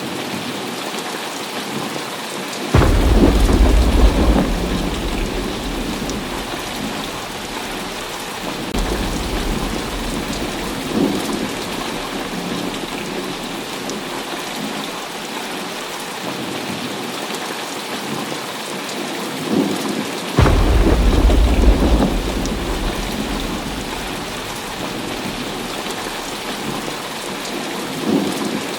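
Heavy rain falling steadily, with two loud claps of thunder about 3 seconds and about 20 seconds in, each rolling on for several seconds as it fades. Fainter rumbles come in between.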